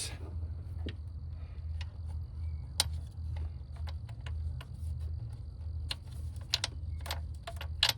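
Scattered light metallic clicks and taps as bolts and a hand tool are handled and bolts are threaded in by hand in a car's engine bay, over a steady low hum.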